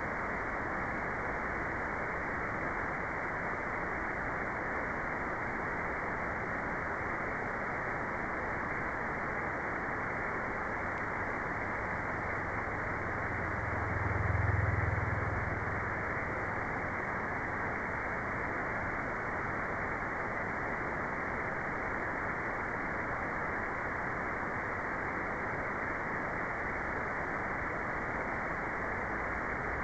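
Steady white-noise track: an even, unbroken rush of hiss with no treble above it, so it sounds muffled rather than bright. A low rumble swells and fades about halfway through.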